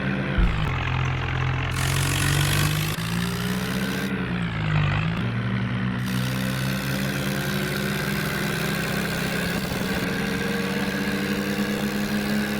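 Tractor engine running, its pitch rising and falling as it is revved about two to five seconds in, then holding a steady note.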